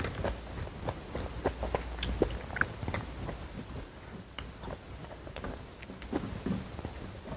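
A person chewing and biting food close to the microphone, with many short crunches and clicks at irregular intervals.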